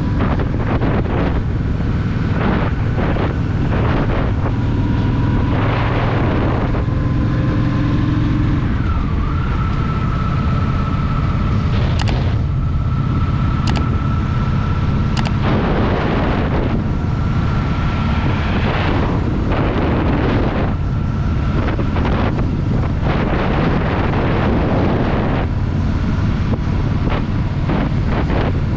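Honda Shadow VT750's V-twin engine running under way, with wind buffeting the microphone in repeated gusts.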